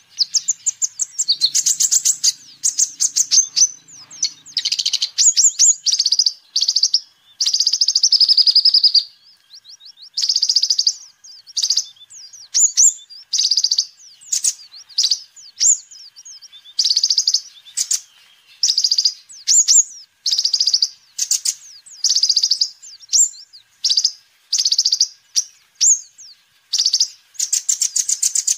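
Crimson sunbird (kolibri ninja) singing: busy phrases of rapid, high chirps and trills, repeated about once a second with short gaps between them.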